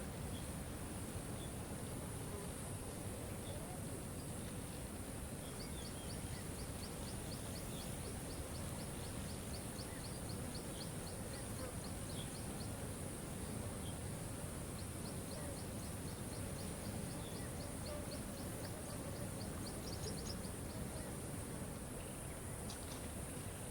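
Waterfall rushing steadily, with a high steady hiss over it. Two long runs of rapid, evenly spaced high ticks, about four or five a second, start a few seconds in and again about halfway, with a few scattered short high chirps.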